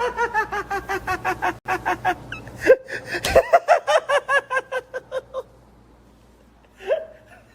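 Young child laughing in quick, rhythmic bursts of about five a second, in two long runs with a short break between, then a brief pause and one more short sound near the end.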